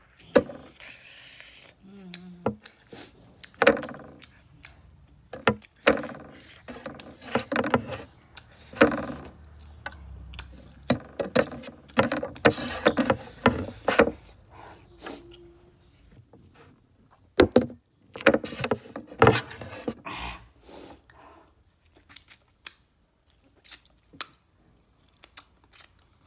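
Close-up mouth sounds of a person eating pork with the hands: chewing, lip smacking and sucking, in irregular wet clicks and bursts with short pauses. The fingers are licked near the end.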